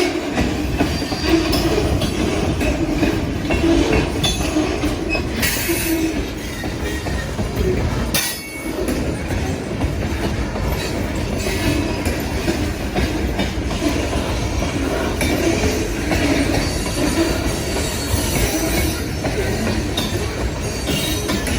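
Freight train rolling past: a steady rumble of wheels on rail, with wheel squeal and some clacking over rail joints. The sound dips briefly about eight seconds in.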